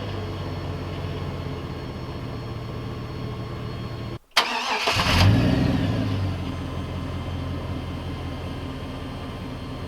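A Chevy 5.3L V8 pickup running through an aftermarket Cherry Bomb chambered muffler, heard from inside the cab, with a steady low exhaust note. A little after four seconds the sound drops out briefly, then a sharp click is heard and the engine note rises for a moment before falling back to a steady idle.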